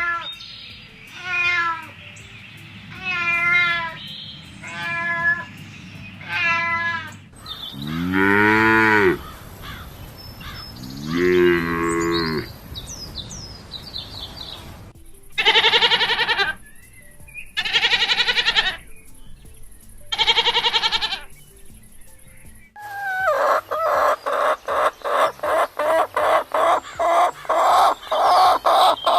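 A run of farm-animal calls. Two long, low cattle moos with rising-then-falling pitch come about 8 and 11 seconds in. Around them are four shorter wavering calls at the start, three loud bright calls later, and a rapid string of short repeated calls near the end.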